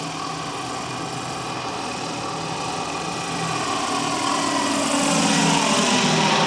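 700-size five-blade RC MD 500E helicopter running, with a scale sound module fitted. It is steady at first, then grows louder from about four seconds in.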